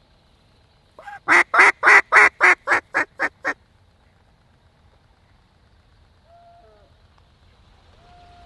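A descending series of about nine loud hen-mallard quacks, coming quickly and growing shorter and softer toward the end. A couple of faint, short, steady tones follow near the end.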